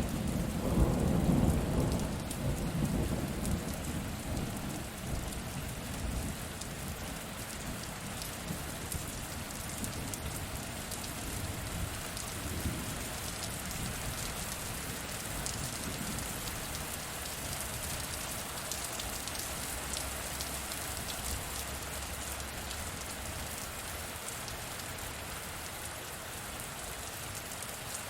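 Steady rain falling, with a roll of thunder in the first few seconds that rumbles and fades away, leaving the rain's even hiss and patter.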